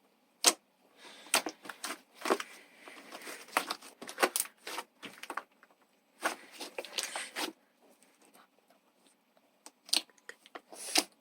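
Slime being squeezed, stretched and pressed, giving sharp pops and crackling clicks in clusters, then a quieter stretch broken by two loud pops near the end.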